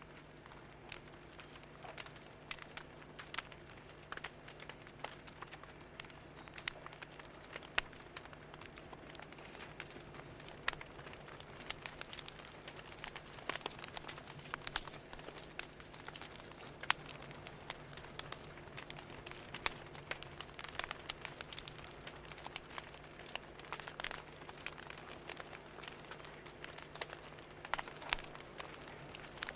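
Wood fire crackling, with irregular sharp pops and snaps over a faint steady low hum.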